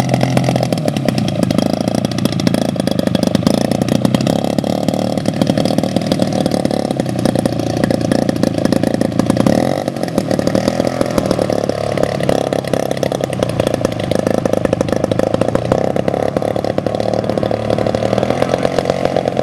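Engine of a 1/3-scale radio-controlled Cessna 182 model running loudly and steadily, its pitch shifting slightly up and down, with a brief dip about ten seconds in.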